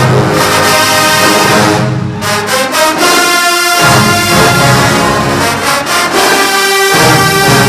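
Marching band brass section playing loudly, trombones and trumpets together, with percussion hits keeping the beat. The low brass drops out briefly about three seconds in.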